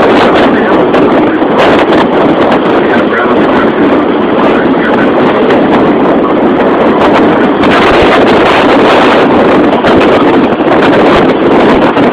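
Loud, steady wind noise buffeting the microphone aboard a moving sightseeing boat, mixed with the boat's running noise.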